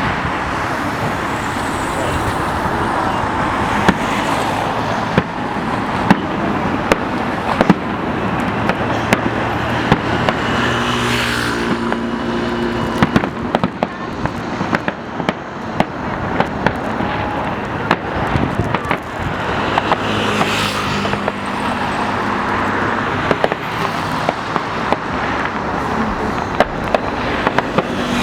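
Fireworks exploding, with many sharp cracks and pops over a constant rumbling wash of noise that swells twice.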